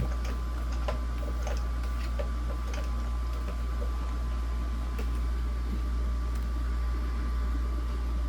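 Holmes Blizzard 9-inch table fan running with a steady low hum and a faint thin whine, not oscillating because its oscillation mechanism has broken. A few light clicks come in the first three seconds.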